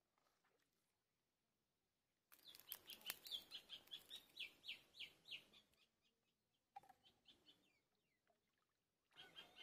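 Bird chirping: a rapid run of short, high, repeated calls, several a second, that starts abruptly about two seconds in and breaks off suddenly, with fainter chirps around the middle and again near the end.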